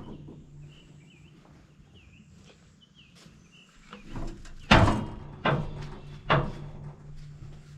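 Three loud clunks about a second apart, the heaviest first, as a log is handled onto a portable sawmill, over a steady low engine hum. Faint high chirps sound before the clunks.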